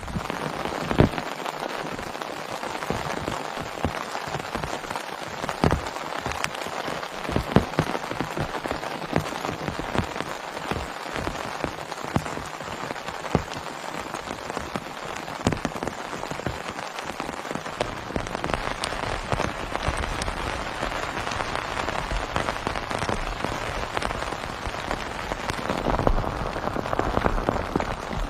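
Heavy rain falling steadily, with many separate drops striking close by as sharp ticks. The rain grows fuller after about two-thirds of the way through and louder near the end.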